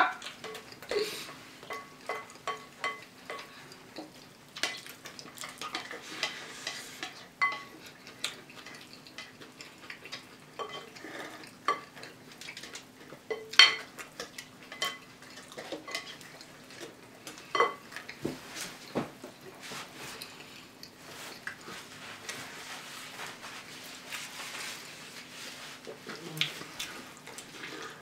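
Spoons clinking and scraping against cereal bowls in irregular, short clicks, some with a brief ring, as cereal is eaten.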